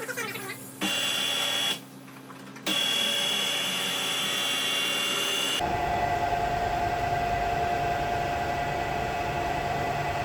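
Electric motor whirring in bursts: a short burst, a longer one with a steady high-pitched whine, then a lower steady whine over a rumble that runs for the last four seconds or so, each part starting and stopping abruptly.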